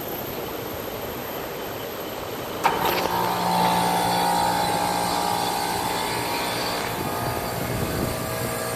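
A steady background whir, then about two and a half seconds in a sharp clack as a Carrier Gemini commercial three-phase heat pump switches on, and its compressor starts and runs with a steady hum. The outdoor fan does not start with it: a delayed ECM fan start.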